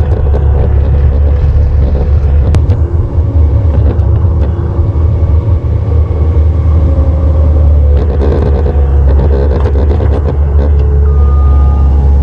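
Chevrolet 1¼-ton diesel military pickup truck running down the road, a loud, steady low engine and road rumble.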